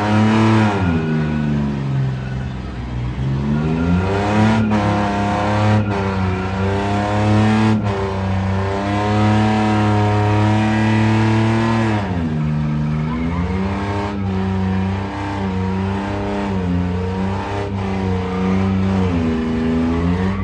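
Vehicle engine revving hard and held at high revs for several seconds, its pitch dropping about twelve seconds in and climbing back up, with a few sharp clicks along the way.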